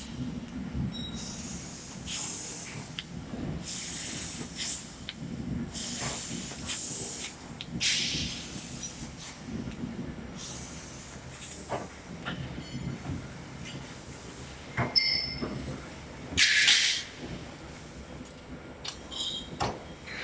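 Sheet-metal workshop machinery forming radiator head plates and frames: a steady low hum with repeated hissing bursts and scattered sharp metal knocks. The loudest hisses come about eight seconds in and again around fifteen to seventeen seconds in.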